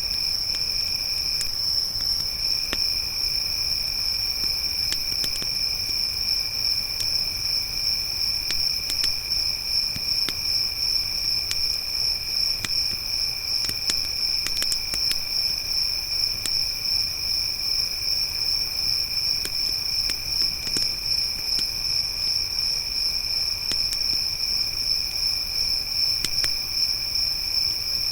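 Crickets trilling without a break in a loud, high, steady chorus, with a second, lower-pitched cricket that stops briefly about two seconds in. Scattered small pops of a crackling campfire.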